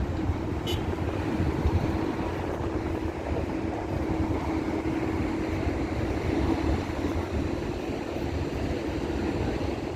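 Busy street ambience: a steady rumble of passing traffic with wind on the microphone, and a steady hum through the middle of the stretch.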